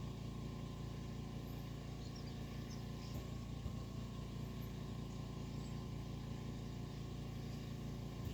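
A few faint, scattered chirps and whistles of European starlings over a steady low hum.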